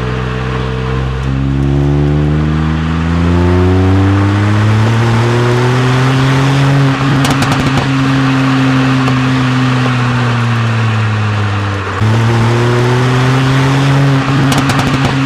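Car engine accelerating: its pitch climbs for the first several seconds and then holds. About twelve seconds in it drops suddenly, as at a gear change, and climbs again.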